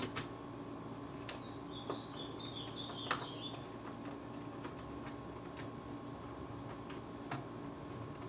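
Scattered light clicks and knocks of plastic and metal parts being handled and pulled free inside an opened PlayStation 3. A short, high, wavering chirp runs for about two seconds in the middle, over a steady faint hum.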